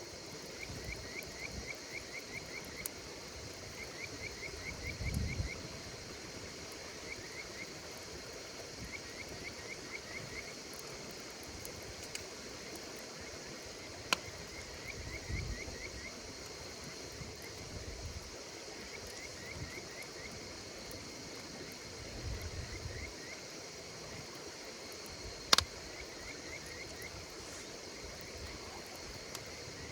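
Insects chirping in short trains of quick chirps every couple of seconds over a steady high insect chorus, with a campfire giving two sharp pops, the louder one near the end.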